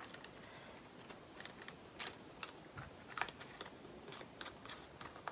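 Faint, scattered light clicks and taps of small plastic items being handled: diamond painting drill pots and bags being sorted.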